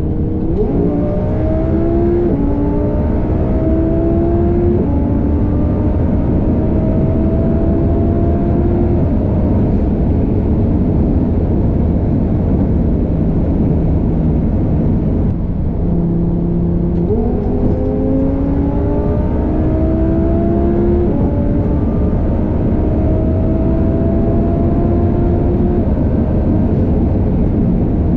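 Twin-turbo Audi R8 V10 under full-throttle acceleration, its engine note climbing and breaking at each upshift through several gears. About halfway through the engine note drops away as the throttle is lifted, then a second pull climbs through the gears again. A steady rush of wind and road noise runs underneath.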